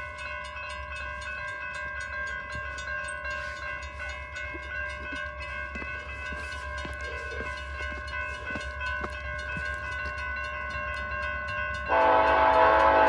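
An approaching train's locomotive horn sounds suddenly and loudly about twelve seconds in, a sustained multi-note chord. Before it, a set of steady tones rings on.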